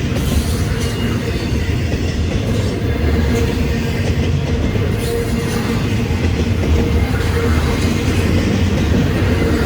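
Freight train cars rolling past close by: a steady heavy rumble with wheels clicking over the rail joints.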